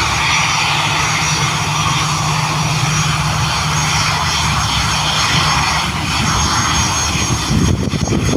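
Jet aircraft engines running with a steady, continuous rush of noise over a deep rumble; the low rumble turns uneven near the end.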